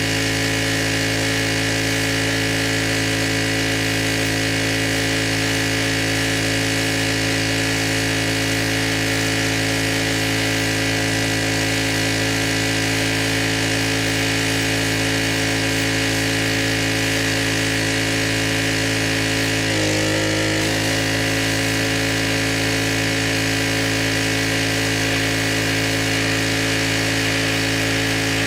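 Pressure washer running steadily with the hiss of its water spray. About two-thirds of the way in, the pitch briefly wavers for about a second.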